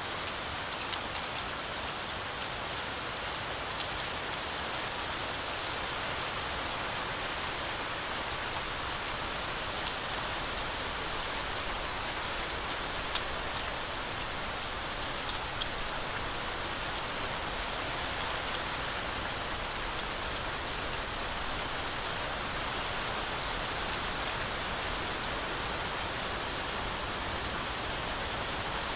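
Heavy, steady rainfall pattering on leaves and the ground, with scattered individual drops.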